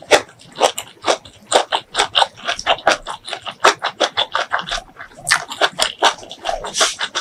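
Close-miked chewing of a mouthful of spicy beef tripe curry: rapid wet clicks and lip smacks, several a second.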